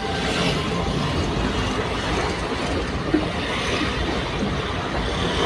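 Steady rumbling road-vehicle noise, with a single short knock about three seconds in.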